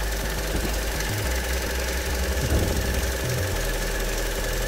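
Vauxhall Corsa engine running steadily at idle during warm-up, its low note shifting slightly about a second in and again after three seconds.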